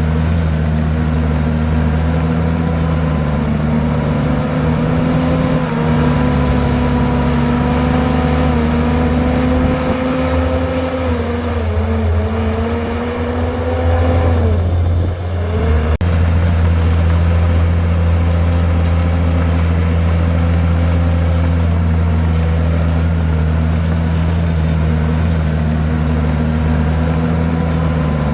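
Komatsu bulldozer's diesel engine running steadily. About halfway through, its pitch sags, dips sharply, then recovers within a second or so.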